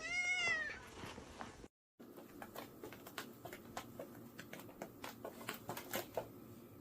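A cat meows once, a short call that rises then falls in pitch. After a brief cut, a run of light, irregular taps and clicks follows.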